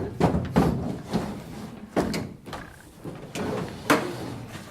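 Wooden or metal chairs being moved and stacked on a stage: a string of irregular knocks and clatters.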